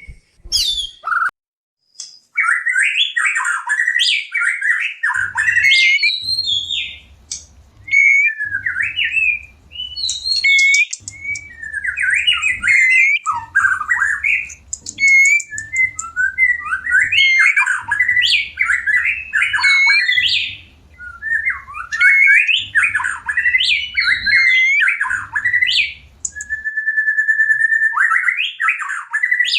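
White-rumped shama singing in a rapid run of varied, rising and falling whistled phrases with short breaks, presented as the song of a bird in breeding condition calling for a mate. Under the song, a low rumble comes and goes in short repeated spells through most of the stretch.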